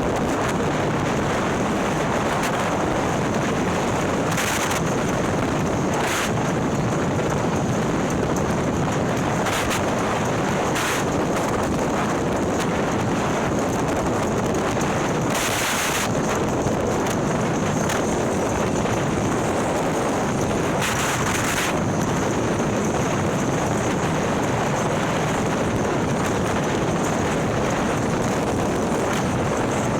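Steady wind rush buffeting the microphone on a motorcycle at cruising speed, with the Harley-Davidson's 130ci Milwaukee-Eight V-twin and ThunderHeader exhaust running underneath. A few short hissy surges come through, near 5, 11, 16 and 21 seconds in.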